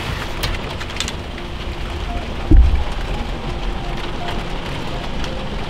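Heavy rain beating on the roof and windows of a camper van, heard from inside, steady throughout. A single short, low thump about two and a half seconds in.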